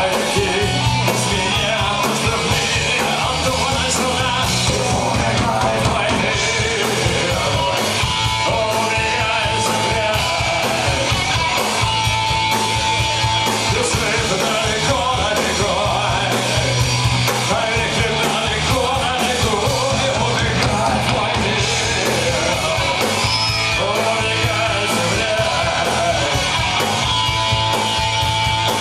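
Live punk rock band playing loud and continuously, with yelled singing over the music.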